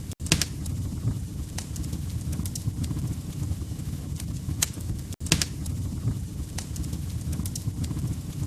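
Wood fire crackling in a fireplace: a low steady rumble of burning logs with sharp pops and snaps scattered irregularly through it. The sound cuts out for a split second twice, once just after the start and once about five seconds in.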